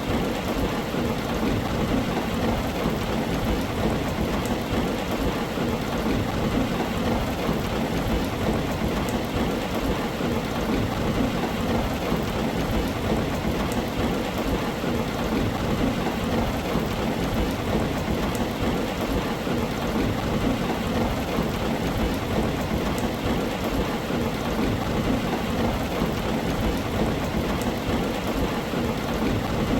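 Heavy rain drumming steadily on a tin roof, a dense even patter over a constant low rumble, with no single loud thunderclap.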